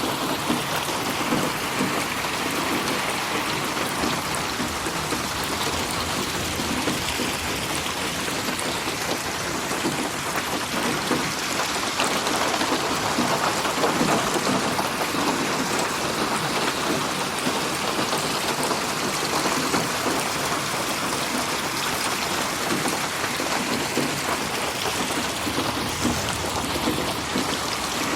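Steady rain falling on a surface, a dense hiss of drops with small individual patters, slowly swelling and easing in loudness, panned around the listener in 8D audio.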